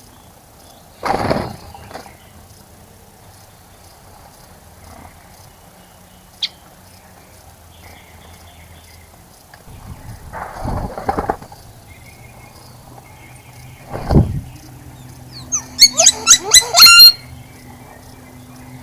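Birds bathing in a bird bath: a few short bursts of splashing and wing flutter, then a loud, rapid chattering call of about eight notes near the end, over faint distant bird chirps and a low steady hum.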